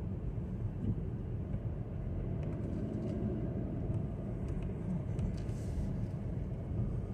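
Steady low rumble of a car moving along a road, engine and tyre noise heard from inside the cabin.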